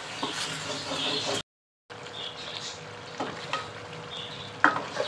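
Wooden spoon stirring mutton trotters in thick gravy in a metal pot, with a steady sizzle of frying: the curry is being fried down (bhunai). A few knocks of the spoon against the pot come in the second half, and the sound drops out for a moment about a second and a half in.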